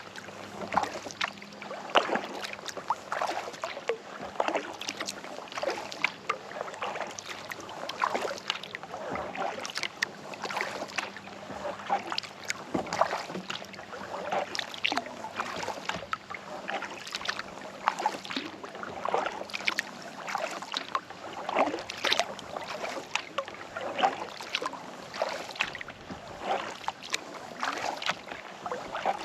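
Kayak paddle strokes in calm lake water: a continuous run of small splashes and drips as the blades dip in and lift out.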